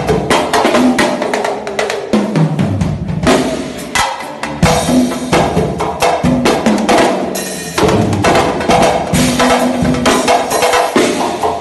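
Percussion group playing a fast, dense groove on hand drums (the small drums called bacurinhas), with rapid sharp strikes and clicky wood-block-like hits over pitched low drum notes. Around two to three seconds in, a low drum note slides down in pitch.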